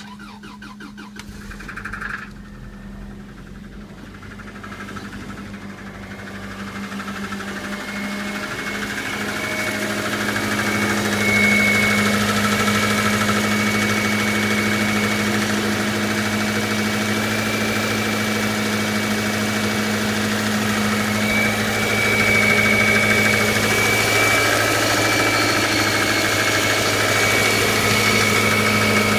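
1997 Subaru Outback's 2.5-litre flat-four engine idling cold, growing louder over the first ten seconds or so, then holding steady. It carries the mystery noise the owner is worried about, which he describes as a really sharp, piercing 'whack, whack, whack'.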